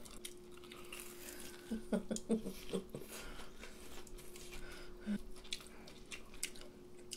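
People chewing and biting food at close range, with scattered small mouth clicks and a few brief low hums about two seconds in. A faint steady hum sits underneath.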